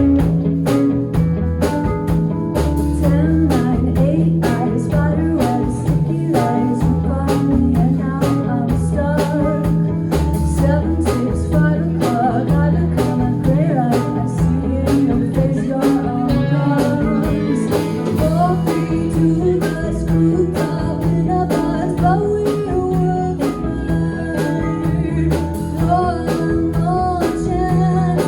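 Live rock band playing an instrumental break, a guitar lead with bending notes over bass and a steady drum beat.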